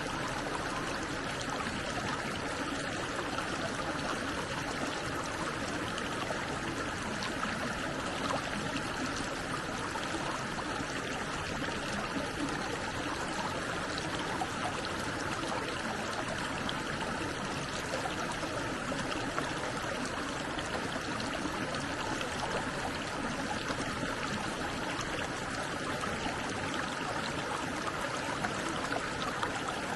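Stream water flowing steadily over rocks, an even, unbroken rushing.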